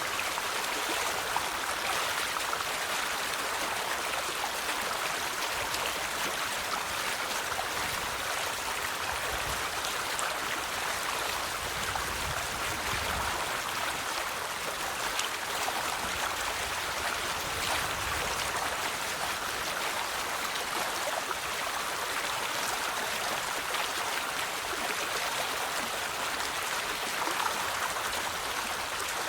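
River water flowing, a steady, even rushing without a break.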